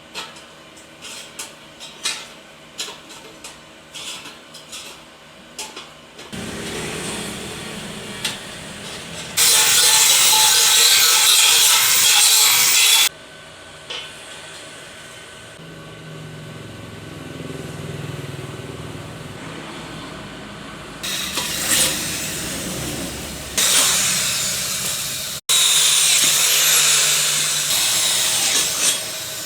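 Workshop tool sounds in short, abruptly changing segments: first a run of light taps and clicks, then loud bursts of a power tool, one about a third of the way in and another near the end, with quieter tool and handling noise between.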